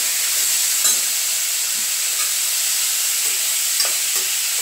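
Onions and tomatoes sizzling steadily in hot oil in a steel pot as they are sautéed and stirred, with a couple of light clinks from the spoon against the pot.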